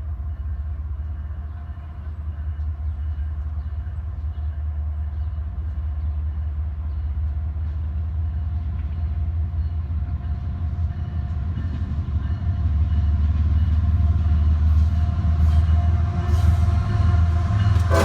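Freight train approaching: the low rumble of its diesel locomotives grows steadily louder, with rail and wheel noise coming in over the last few seconds.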